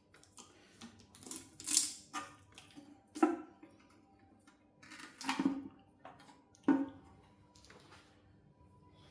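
Irregular clinks, knocks and scrapes of metal tools and engine parts being handled while an engine is taken apart. There are sharp clanks about three seconds in and near the seventh second, and louder scraping or rustling sounds around the second and fifth seconds.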